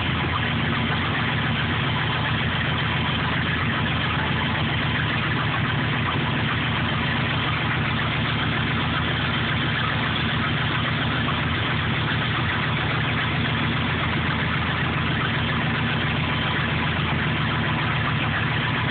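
1961 Fargo truck engine idling steadily at an even speed, with no revving.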